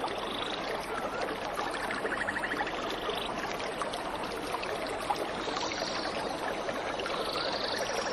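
Steady rushing of a waterfall with birds calling over it. There is a rapid trill a couple of seconds in, and short arching higher calls in the second half.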